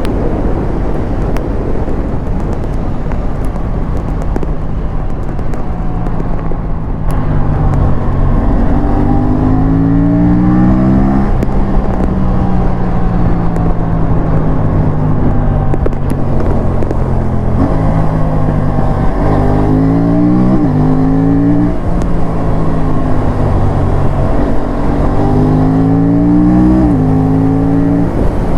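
Aprilia parallel-twin sport bike engine pulling hard at full throttle. The revs climb and drop sharply at each upshift, several times over. Wind noise on the microphone dominates the first few seconds.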